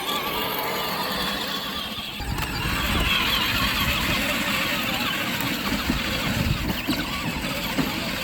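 Child's Tonka ride-on truck driving off: a steady mechanical whir from its drive, joined about two seconds in by a heavier low rumble that lasts to the end.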